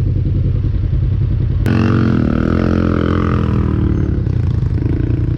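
Polaris Sportsman ATV engine running under way. A sharp click comes a little under two seconds in, and after it the engine note shifts up and down with the throttle.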